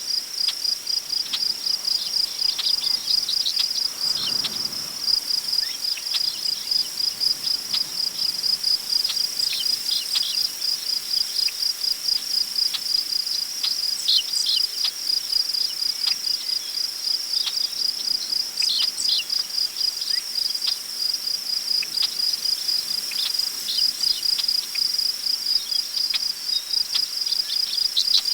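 Crickets chirping in a steady, rapid, high-pitched pulse, with brief bird chirps scattered over it and a faint rustle of wind through grass that swells softly about four seconds in.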